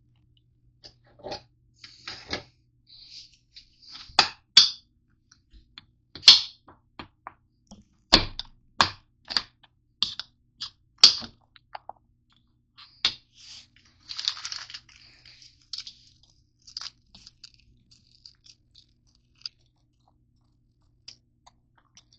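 Crunchy granola bars being handled and broken up: an irregular run of sharp cracks and knocks, with a short rustle about fourteen seconds in. A faint low hum stops about three seconds in.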